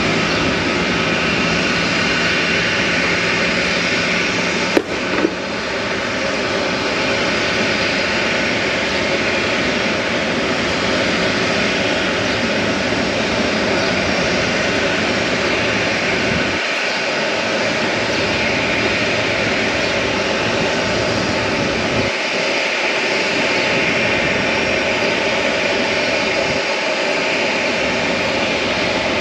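Airliner jet engines running, a loud steady rushing noise, with one sharp click about five seconds in.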